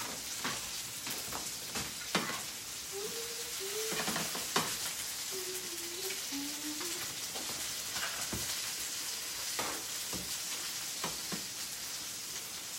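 Sausage and bacon frying in oil in skillets: a steady sizzle with the oil popping, and a few sharp knocks and scrapes of a utensil against the pans.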